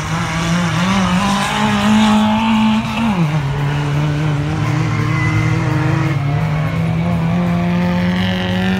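Banger-race car engines at high revs on a dirt track. The main engine note climbs, falls sharply about three seconds in, then climbs slowly and steadily again.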